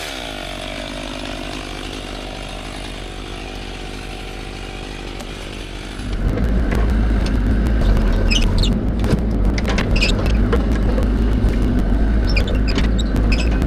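Machinery engine running steadily, then much louder with a heavy low rumble from about six seconds in, with scattered sharp clicks and cracks over it.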